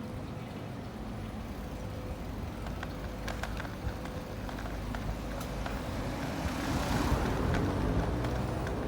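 Street noise with a road vehicle passing, its sound swelling to a peak about seven seconds in and easing off near the end. A faint steady hum and a few light clicks sit under it.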